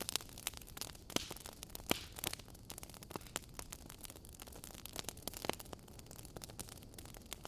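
Wood fire crackling in a fireplace: a steady hiss with irregular sharp crackles and a few louder pops.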